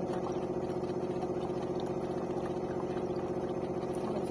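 De'Longhi TrueBrew coffee maker running with a steady mechanical hum, even in pitch and level.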